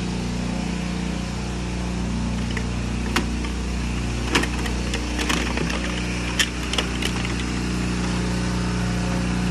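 A motor vehicle's engine running steadily, with a few sharp clicks or knocks over the middle few seconds.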